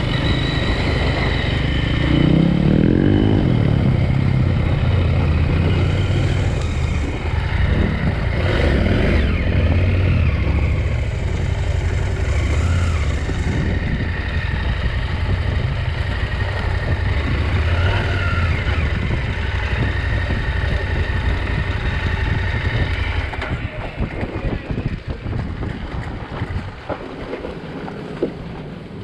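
KTM 890 Adventure R's parallel-twin engine running as the bike is ridden. It falls quieter near the end.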